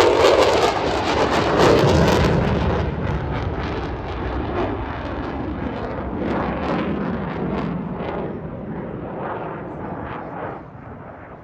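Fighter jet noise from an F-16 Fighting Falcon passing, loudest at the start and fading steadily as it moves away.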